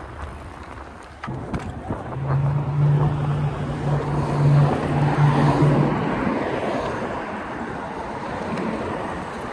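Wind buffeting the microphone while riding in traffic. A motor vehicle passes close, its low engine drone loudest a few seconds in and then fading.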